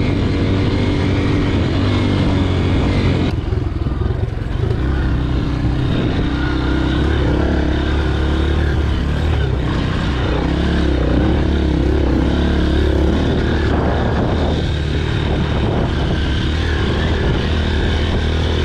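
Dirt bike engine running while riding along a trail, with a steady note that shifts to a lower, deeper pitch about three seconds in.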